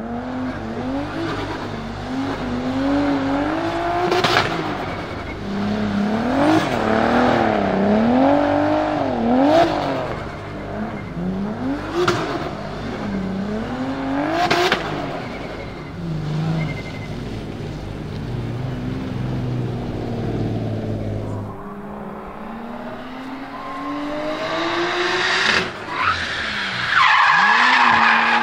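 Nissan Skyline R33 GTS-T drift car's turbocharged RB25DET straight-six, fitted with an external wastegate, revving up and down again and again, with several sharp cracks at throttle lifts and tyre squeal under it. Near the end it pulls through one long steady rise in pitch.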